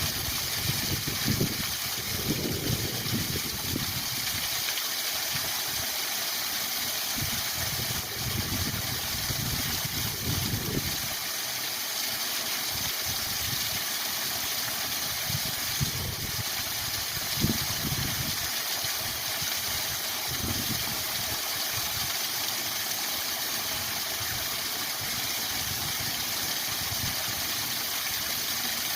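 Waterfall rushing steadily: an even, constant hiss of falling water, with irregular low rumbles coming and going underneath.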